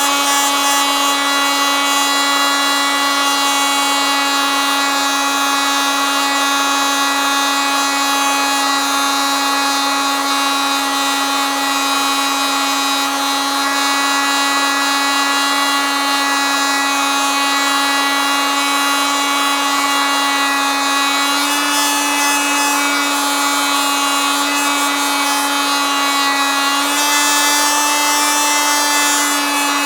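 Oscillating multitool running continuously, a loud, steady, high buzzing whine. Its pitch steps up slightly about two-thirds of the way through and again near the end.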